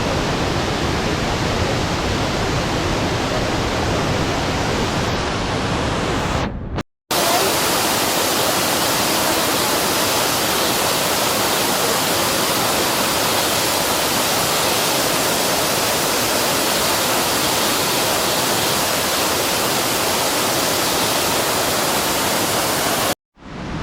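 Waterfall: a loud, steady rush of falling water, broken by a brief silent gap about seven seconds in and again near the end.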